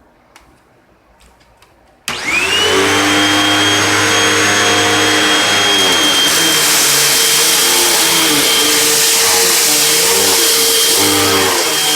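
Hoover WindTunnel Rewind bagless upright vacuum cleaner switched on about two seconds in after a few faint clicks, its motor spinning up within a second to a loud steady run with a high whine. From about the middle the hiss grows brighter and the pitch wavers slightly as it works.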